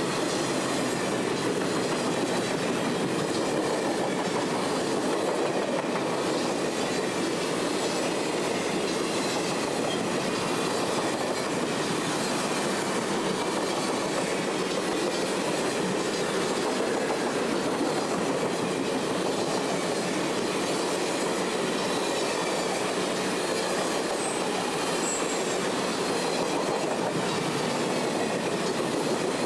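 Circus train passenger coaches rolling past at speed: a steady rolling noise of steel wheels on the rails.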